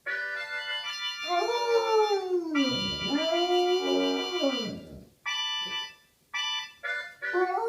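A Spinone Italiano howling along to a harmonica: the harmonica plays held chords while the dog's howls rise and then fall in long arcs. One howl runs through the first half, the harmonica stops and starts in short notes after that, and a new howl begins near the end.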